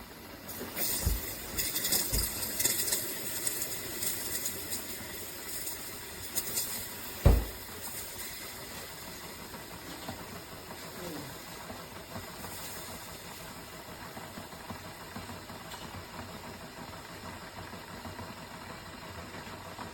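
Single-serve K-Cup coffee maker brewing: hissing and spluttering for the first several seconds, then a steady low running noise. A single sharp thump sounds about seven seconds in.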